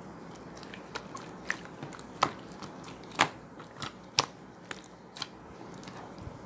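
A series of irregular sharp clicks and crunches, the loudest about two, three and four seconds in.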